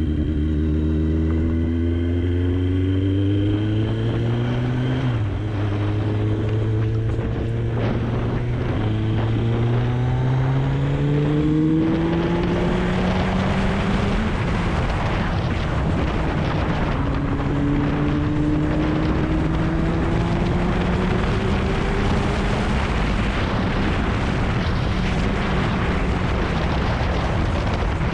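Kawasaki ZX-9R's inline-four engine pulling hard through the gears, its pitch climbing and dropping back at upshifts about five and nine seconds in. Wind rush on the camera microphone builds as speed rises and takes over from about halfway.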